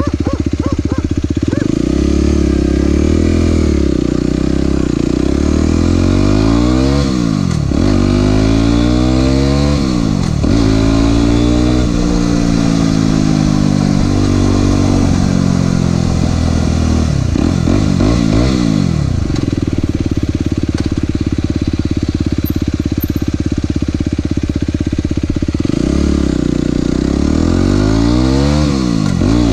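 Aprilia SX 125's 125 cc single-cylinder four-stroke engine running loud through an Arrow exhaust with the dB killer removed. It revs up and down repeatedly, with stretches of steady running before and after.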